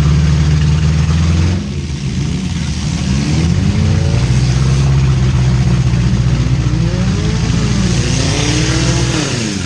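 Four-cylinder demolition derby car engines revving hard, pitch rising and falling again and again, easing off briefly about a second and a half in.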